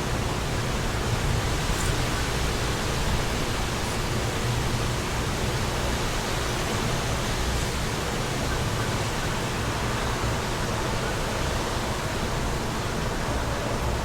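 Wind blowing steadily: an even rushing noise with a low, fluttering rumble underneath.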